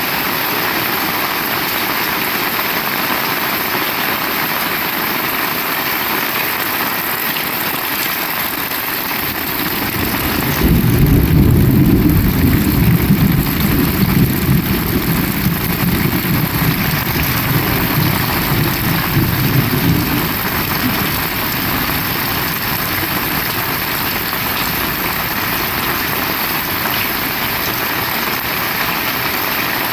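Heavy rain falling steadily, a constant even hiss. About ten seconds in, a deep, uneven rumble swells up under the rain for about ten seconds and then fades away.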